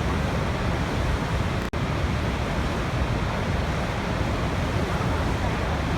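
Waterfall rushing: a steady, dense roar of falling water, heaviest in the low end, broken by a split-second gap a little under two seconds in.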